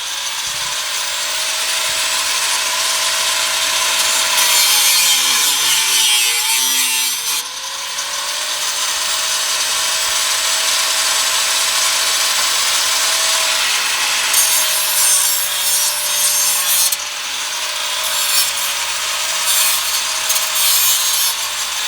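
Electric power saw cutting through a metal exhaust pipe. A motor whine runs over a harsh, rasping cut; the whine sags as the blade bogs down about six seconds in, then picks back up.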